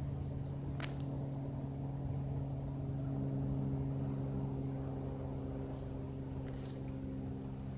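Light propeller plane's engine droning overhead as a steady hum that swells slightly about halfway through.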